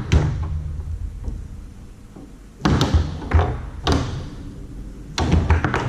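Foosball being played on a Tornado table: clusters of sharp knocks and clacks as the ball is struck by the figures and rattles against the table. One comes just after the start, a quick run follows about three seconds in, and another comes near the end.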